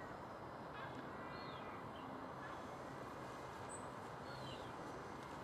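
Outdoor ambience: a steady low hiss with a few short, high bird chirps scattered through it.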